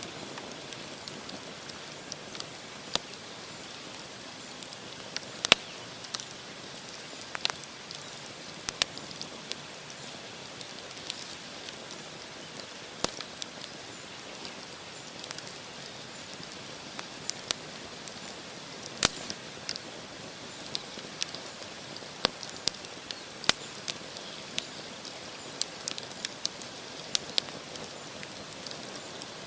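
Wood campfire crackling: burning logs give irregular sharp pops and snaps, a few of them loud, over a steady hiss of flame.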